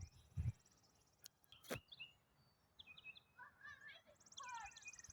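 Faint birds chirping: short, repeated arched notes starting about three seconds in, with a buzzy high trill near the end.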